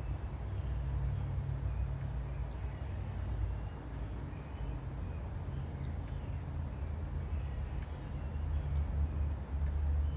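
Car engine running with a steady low hum that swells a little near the end, with faint bird chirps above it.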